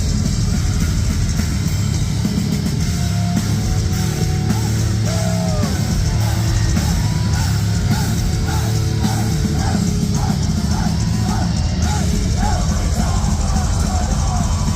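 Metal band playing live at full concert volume: heavy distorted guitars, bass and drums. About six seconds in, a high melodic figure of short repeated notes, roughly two a second, comes in over the band.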